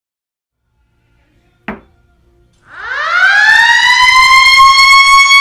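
A short click, then a siren winding up: one loud tone that climbs quickly in pitch and levels off into a steady high wail.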